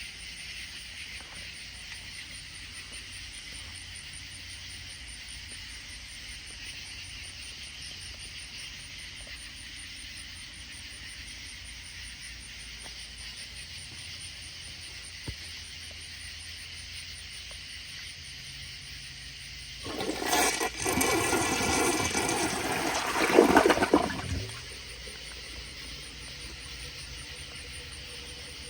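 1993 Crane Hymont toilet flushing: loud rushing water for about four and a half seconds, starting about 20 seconds in and cutting off abruptly. Before it there is only a low steady hiss.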